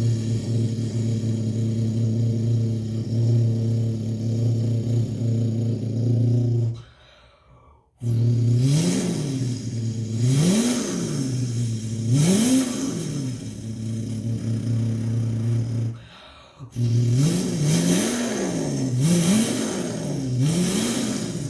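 A person imitating a Bugatti Chiron's W16 engine with their mouth: a steady low droning hum, a short pause for breath about seven seconds in, then repeated rising and falling pitch sweeps like an engine revving up through the gears, another brief breath pause, and more sweeps before settling back to a steady hum near the end.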